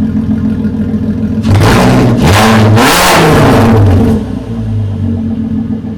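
Volkswagen R32's VR6 engine, its exhaust with no muffler and only a high-flow catalytic converter, idling loudly. About a second and a half in it is revved hard once, climbing in pitch and dropping back to idle about four seconds in.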